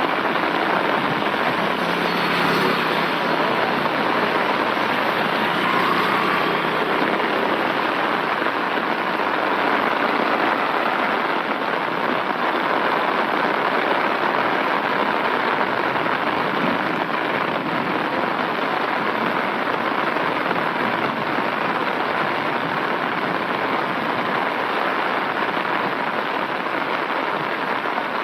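Steady rain falling on an umbrella held overhead.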